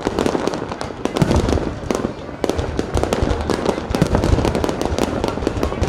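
A fireworks display: a dense, rapid string of crackling bangs over low booms.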